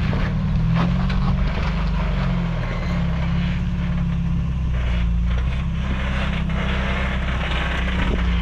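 Off-road truck engine running low and steady at crawling speed, with a few short knocks as the truck works over rocks.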